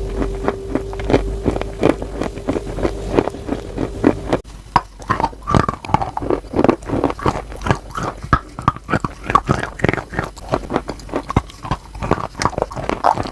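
Chalk being bitten and chewed close to the microphone: many sharp crunches in quick succession. For the first four seconds or so a steady hum runs under the crunching, then stops abruptly at a cut, and the crunching carries on without it.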